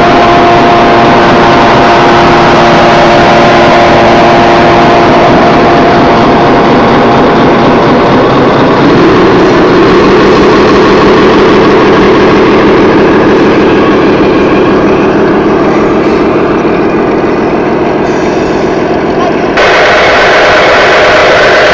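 Loud, steady engine-like running of RC scale trucks, with held tones. The pitch shifts about nine seconds in, and the sound changes abruptly near the end.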